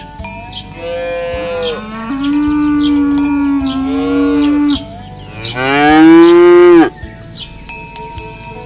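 A cow mooing twice: a long, low moo of nearly four seconds, then a shorter, louder moo that rises in pitch. Light bell-like ringing runs in the background.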